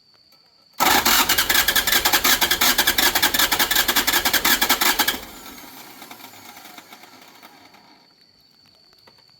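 A loud, fast mechanical rattle starts abruptly about a second in and runs for about four seconds, then drops off sharply and fades away over the next few seconds.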